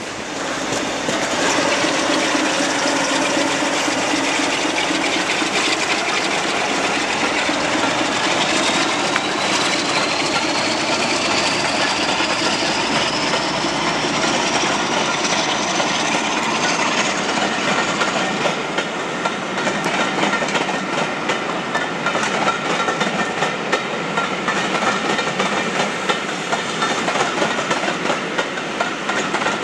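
Trains running through a station: a locomotive-hauled train passes close by, then a Sulzer-engined Class 47 diesel works hard to pull a rake of coaches away, with a thin whine that rises slowly over several seconds. Toward the end the coach wheels clickety-clack over the rail joints in a steady rhythm.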